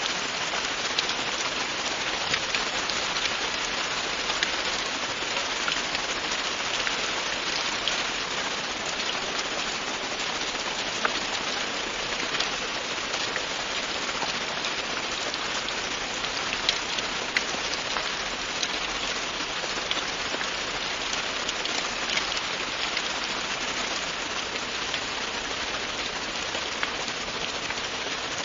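Steady, continuous rain falling on a surface, an even hiss dotted with many small individual drop ticks.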